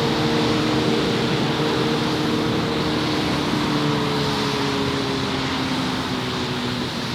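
Street traffic: a vehicle engine hums at a steady pitch that slowly drops in the second half, over continuous road noise.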